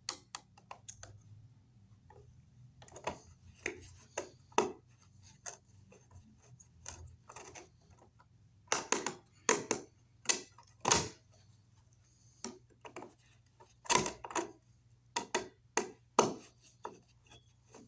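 Irregular clicks and taps of a screwdriver and a wall outlet being handled while working on it in its electrical box, coming in scattered bunches and busier in the second half, over a faint steady low hum.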